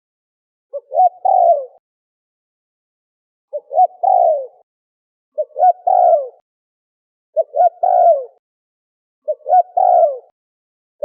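Spotted dove (terkukur) cooing: five calls, one about every two seconds, each a couple of short rising notes followed by a longer coo that falls in pitch. The recording is clean, with silence between calls.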